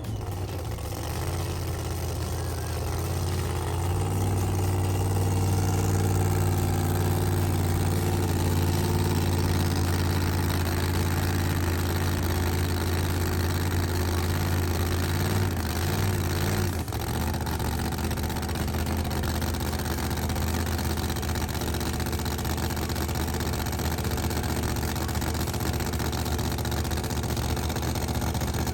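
An engine running steadily at a low, even idle, with a slight change in its note about 4 seconds in and again about 17 seconds in.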